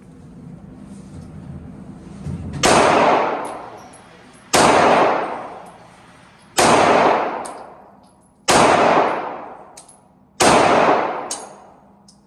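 Five shots from a compact 9mm Glock pistol, fired one at a time about two seconds apart, each loud crack trailing off in a long echo.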